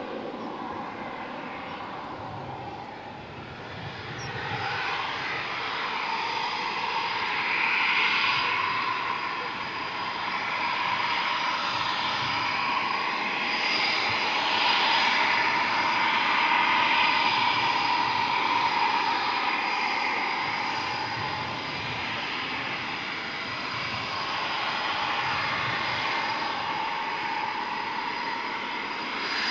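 Eurofighter Typhoon's twin EJ200 turbofan engines running: a steady jet rush with a constant high whine, slowly swelling and easing in loudness.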